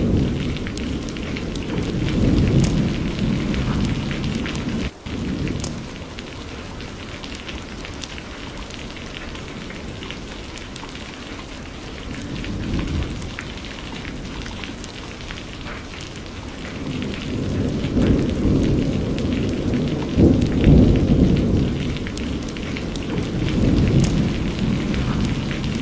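Steady heavy rain with rolling thunder rumbling in slow swells that build and fade, the longest and loudest in the second half. About five seconds in, the sound cuts out for an instant.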